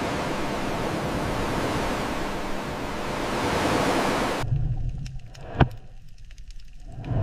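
A steady, even rushing noise that cuts off suddenly about four and a half seconds in. A quieter low rumble follows, with a single sharp click.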